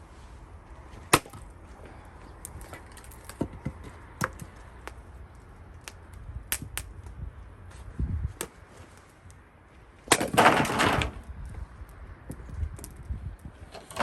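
Gränsfors Bruk axe striking and splitting cherry-wood rounds: a sharp, loud strike about a second in, then several lighter knocks. Near the end comes a clatter of about a second, like split pieces falling.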